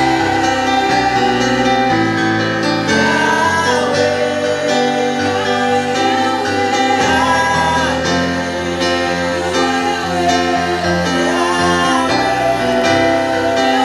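Gospel worship song: a sung melody over instrumental accompaniment.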